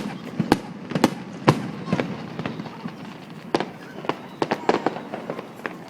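Fireworks going off in a rapid, irregular series of sharp bangs, thinning out near the end.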